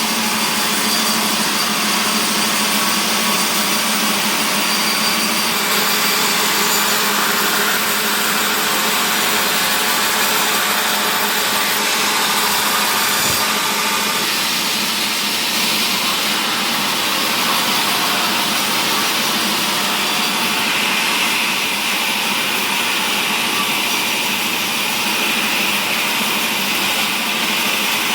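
Woodworking mill machinery running steadily with a loud, even noise, with one short knock about halfway through.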